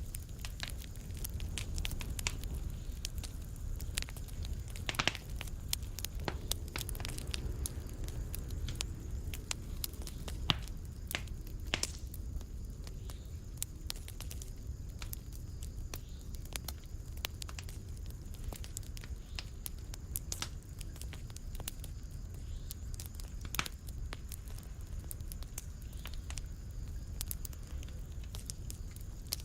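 Wood fire in a fireplace crackling, with irregular sharp pops several times a second over a low steady rumble. Every few seconds there is a louder snap.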